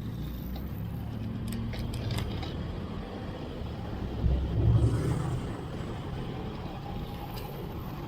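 Traffic noise heard from a moving road bicycle: a steady low rumble of vehicles and wind, a few sharp clicks about one and a half to two seconds in, and a louder low swell about four to five seconds in, like a vehicle passing close.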